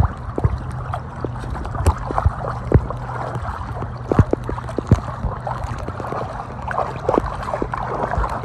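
Choppy lake water lapping, gurgling and slapping against a small raft, with irregular knocks and splashes. A low steady hum sits underneath and fades near the end.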